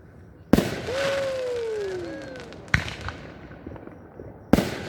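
Aerial firework shells bursting overhead: three sharp booms about two seconds apart, each trailing off, with a drawn-out falling vocal "ooh" from spectators after the first.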